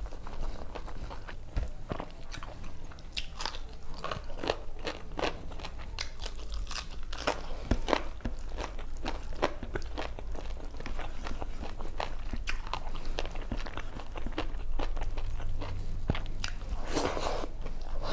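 Close-miked chewing and biting with many sharp crunching clicks and wet mouth sounds, a person eating a rice-and-vegetable meal by hand, with a denser mouthful of sound near the end.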